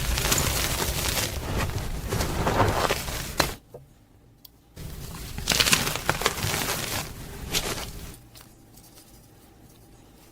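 Gym chalk crunching close to the microphone, in two dense bouts separated by a short pause about three and a half seconds in. It drops to faint sound after about eight seconds.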